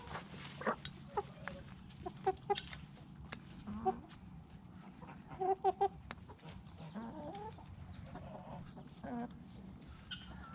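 Chickens clucking: short, scattered calls, with a quick run of several clucks about five and a half seconds in.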